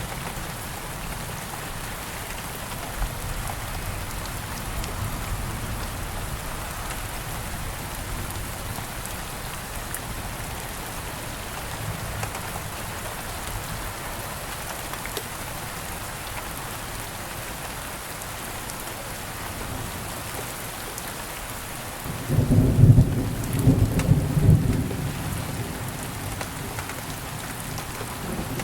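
Steady rain falling, with a low roll of thunder rumbling for about three seconds near the end, the loudest sound in the stretch.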